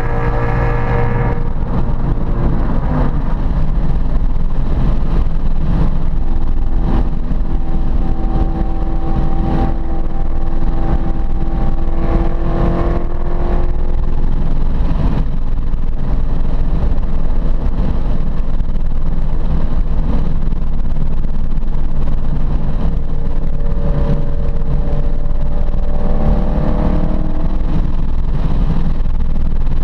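Ford Mustang Boss 302's 302-cubic-inch V8 running hard on a road course, its pitch rising and falling as the car accelerates and slows through corners. The engine note is loud and continuous, with tyre and road noise underneath.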